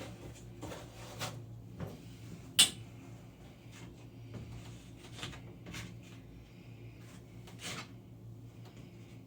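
Plastic key card scraping and spreading spackle, a scatter of short scrapes with one sharp click about two and a half seconds in, over a steady low hum.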